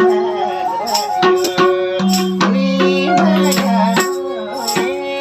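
Nepali folk music: a sarangi plays a sliding melody over a steady rhythm of madal hand-drum strokes.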